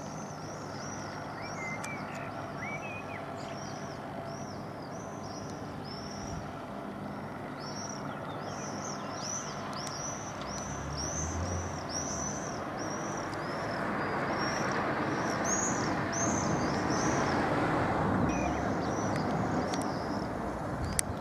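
A bird repeating short chirping notes, about two a second, with a few pauses, over the hum of road traffic. A passing vehicle swells louder in the second half and fades near the end.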